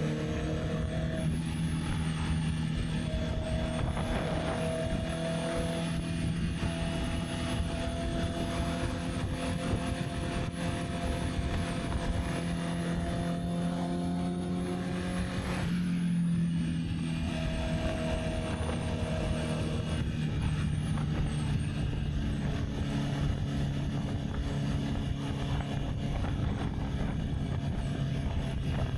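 Honda CB650R's inline-four engine running steadily while riding, with wind noise on the microphone. About sixteen seconds in, the engine note shifts briefly, then settles back to a steady run.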